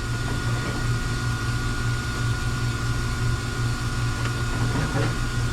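Steady machine hum with a thin, constant high-pitched whine over it, like a fan or air-conditioning unit running.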